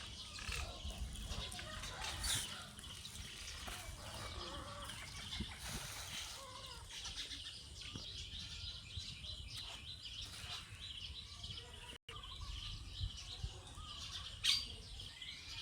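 Birds chirping, a busy run of many small calls over a low rumble, with a brief dropout about twelve seconds in.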